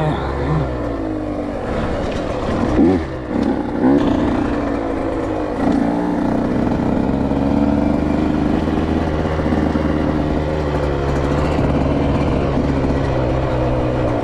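Dirt bike engine on a motocross track, blipped in two quick revs about three and four seconds in, then held at a steady, slowly climbing pitch under throttle.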